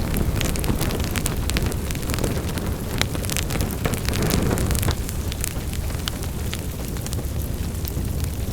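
Wood fire burning with a steady low rumble and frequent sharp crackles and pops, thicker in the first half and thinning out about five seconds in.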